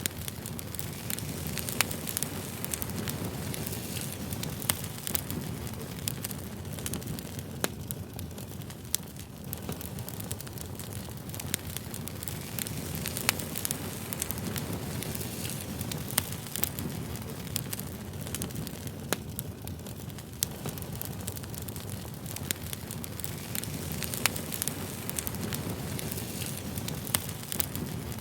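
Campfire burning: a steady low rumble of flames with frequent irregular sharp crackles and pops of burning wood.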